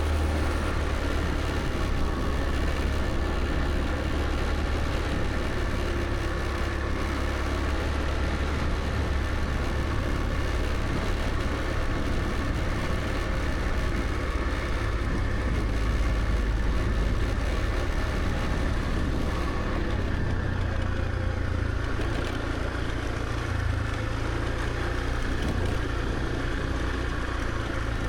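Motor scooter running steadily on the road, its small engine hum mixed with road noise.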